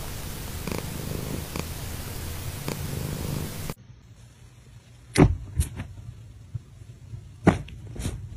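A domestic cat purring close to the microphone, its rumble swelling and easing about once a second with its breathing. It cuts off suddenly about four seconds in, and a few sharp thumps and soft rustles follow.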